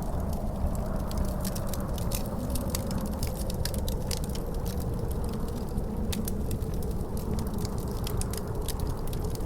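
Wood fire crackling with frequent sharp pops, over a steady low rumble of wind. A faint howl of wind drifts slowly lower in pitch.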